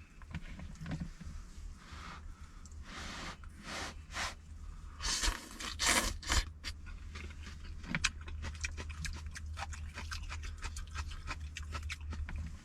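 A person eating a bowl of hot noodles: a few slurps in the first half, then chewing with many small light clicks, over a steady low hum.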